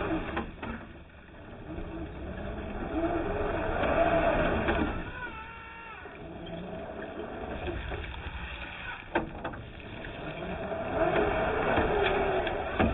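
RC crawler truck's electric motor and drivetrain whining, the pitch rising and falling as it is throttled on and off, with a few sharp clicks and a low rumble.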